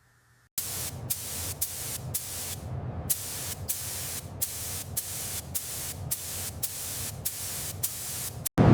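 A pressurized spray hissing, starting suddenly about half a second in and running with short breaks about twice a second, with one longer break near the middle, then cutting off abruptly near the end.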